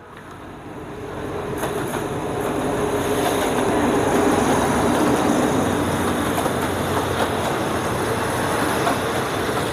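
Diesel-hauled passenger train pulling into the platform: the locomotive's engine and the coaches' wheels on the rails, growing louder over the first few seconds and then running steadily past, with occasional wheel clicks.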